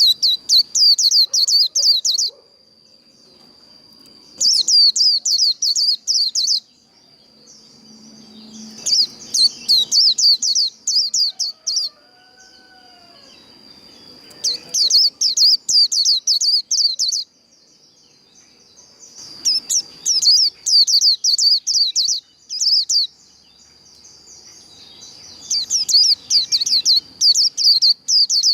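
White-eye (vành khuyên) singing its fast 'líu' song: bursts of rapid, high twittering chirps, each two to three seconds long, repeated about every five seconds. A faint steady high whine runs underneath.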